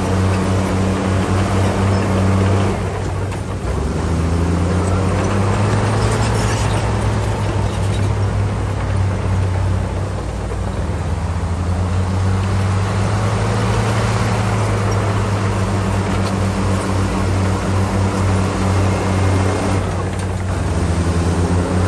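Bulldozer's heavy diesel engine running hard. Its note drops briefly about three seconds in and again near the end, then climbs back as the machine takes up load.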